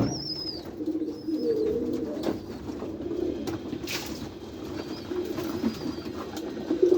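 A loft full of domestic pigeons cooing continuously, many birds overlapping. A sharp click right at the start and a brief rush of noise about four seconds in.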